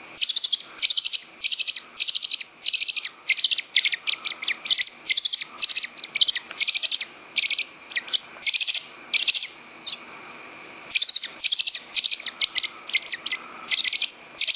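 Baby bird, taken for a robin fledgling, giving loud, high begging chirps in quick succession, about two to three a second, with a short pause about two-thirds of the way through. The chirping is the sign that it is hungry.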